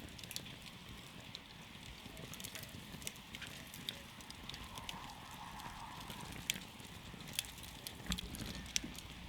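Wood campfire burning, with irregular sharp crackles and pops from the wood over the steady low rumble of the flames.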